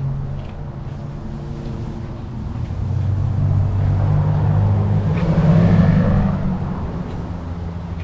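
Motor vehicle engine running, swelling louder for a few seconds in the middle and then fading again.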